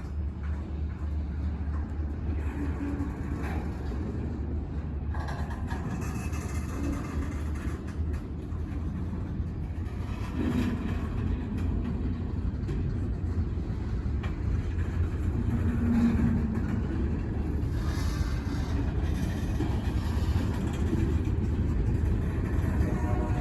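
Wheeling and Lake Erie freight train rolling by with a steady low rumble.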